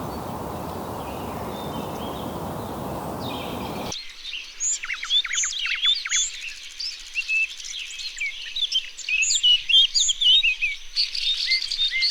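A steady rushing noise that stops abruptly about four seconds in, giving way to a busy chorus of birds: many short, high chirps and quick whistles overlapping.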